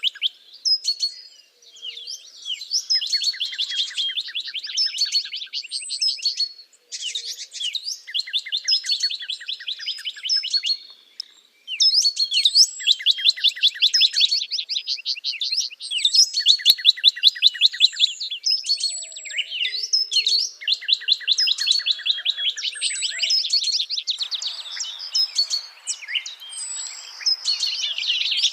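Songbirds singing: phrases of fast, rapid-fire trilled notes with quick high chirps between them, repeating with short pauses. A rushing hiss joins in near the end.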